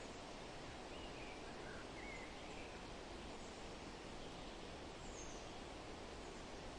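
Steady rustle of wind through forest leaves, with a few faint, short bird chirps about a second in and one more, higher, near five seconds.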